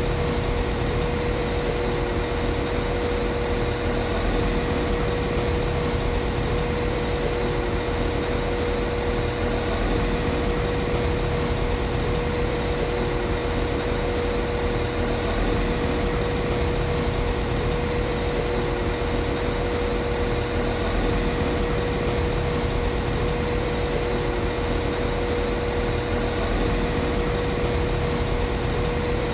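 Class 195 CAF Civity diesel multiple unit's underfloor MTU diesel engine idling steadily: an even low rumble with a constant whine over it.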